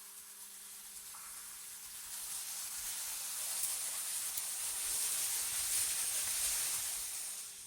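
Synthetic wind ambience: a high, airy hiss that swells into a gust over a few seconds and falls away near the end, over a faint steady low hum.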